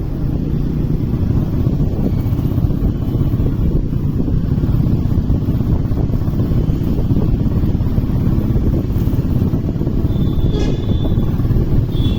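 Motorcycle running on the move, a steady low rumble of engine and road noise, with a brief high tone about ten and a half seconds in.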